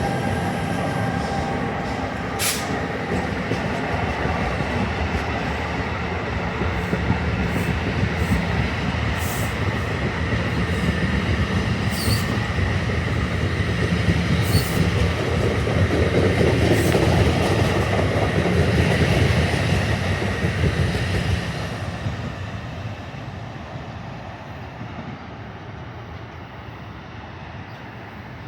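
Commuter train running past on the rails: a steady loud rumble of wheels and cars with a few sharp clicks. It dies away from about 22 seconds in.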